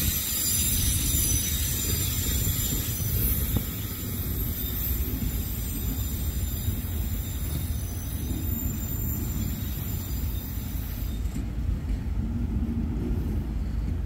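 Freight train of autorack cars rolling slowly past, a steady low rumble of wheels on rail. Thin high-pitched wheel squeal sounds over it and stops about eleven seconds in.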